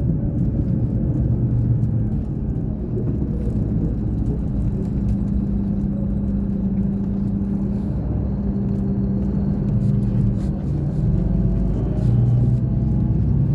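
Scania K420 coach's diesel engine running steadily, a low drone whose pitch shifts slightly now and then.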